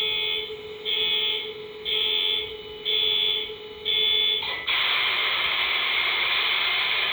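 Sound decoder of an HO-scale MTH SD70ACe model diesel locomotive playing its start-up sequence through its small speaker: five warning beeps about once a second over a steady hum, then about four and a half seconds in, the diesel engine sound starts and runs on steadily with a noisy hiss.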